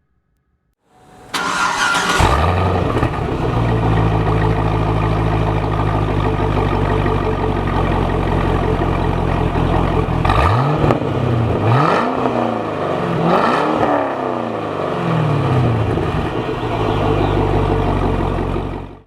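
2010 Cadillac CTS-V's supercharged 6.2-litre V8 through a Corsa cat-back exhaust: it starts up about a second in with a loud flare, settles to a steady idle, then is revved three times in quick succession before dropping back to idle.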